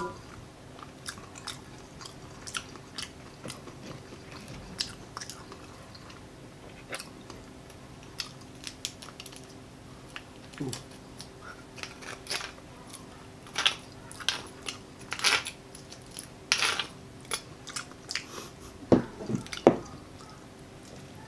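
Close-up eating sounds of baked bone marrow: wet chewing and lip-smacking as short scattered clicks, louder in clusters past the middle and near the end.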